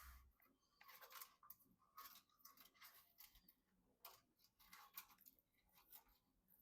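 Faint, irregular clicks and rustles of hands handling computer parts during a PC build, a few light taps a second.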